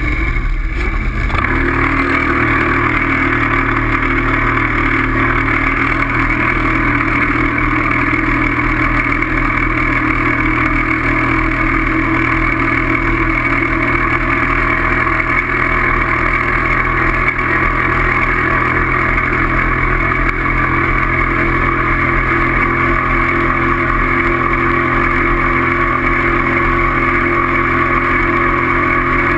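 Steady, loud running noise of a vehicle in motion, with a constant low hum and no rise or fall in pitch.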